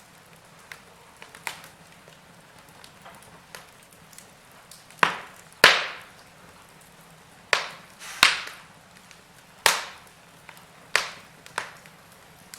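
Wood fire burning in a fireplace, crackling with a run of sharp pops over a faint steady hiss; the pops come thick in the second half, the loudest a little before the middle.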